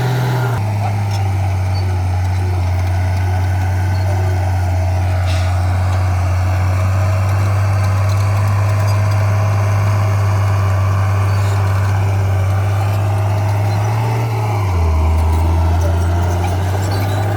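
Diesel engine of heavy earthmoving equipment running steadily with a deep rumble. About 15 seconds in, the rumble drops lower and grows a little louder, as under a change of load.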